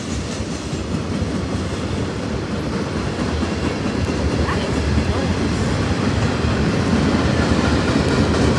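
Freight train cars rolling past at close range: a steady rumble of wheels on rail with clickety-clack, growing slowly louder.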